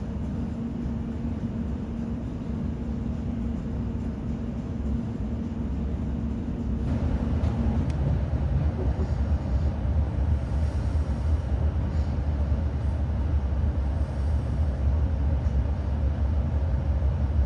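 Class 701 Aventra electric train running, heard from inside the carriage: a steady rumble of wheels on track with a low, even hum. About seven seconds in, the running noise turns louder and rougher.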